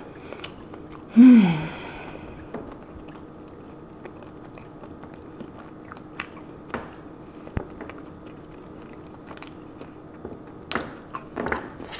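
Close-up chewing and biting of a fried caramel cheesecake egg roll: scattered soft mouth clicks and small crunches, with a brief hummed "mm" about a second in.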